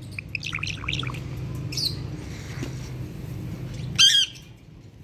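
Pet parrots calling: a quick run of short chirps, a brief high call, then one loud harsh squawk about four seconds in, over a low steady background hum.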